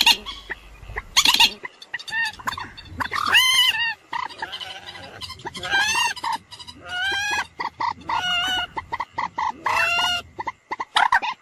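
Common moorhen calling: a string of loud, pitched calls repeated every second or two, with quick rattling clicks between them.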